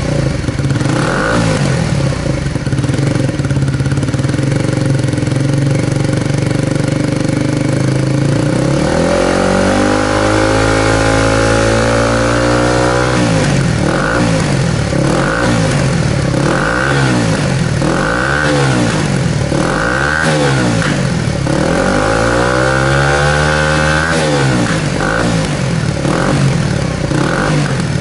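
Suzuki GSX-S125's single-cylinder four-stroke engine running through a BEAMS CORSA-EVO II full exhaust: it idles, is revved up and held for a few seconds, then given a string of quick throttle blips, another long rev, and more blips.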